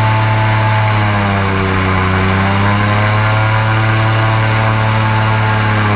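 Airboat's engine and airscrew propeller running steadily and loud, a deep drone whose pitch sags slightly and rises again.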